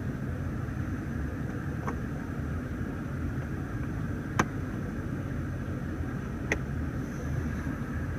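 Steady low rumble inside a BMW 328i's cabin, with three short plastic clicks as the ashtray lid and cigarette lighter in the centre console are handled. The loudest click comes about halfway through.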